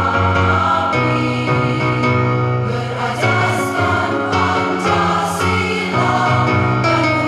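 A women's choir singing a march song in Indonesian, with instrumental accompaniment. The voices hold notes that change about every second over a steady bass line.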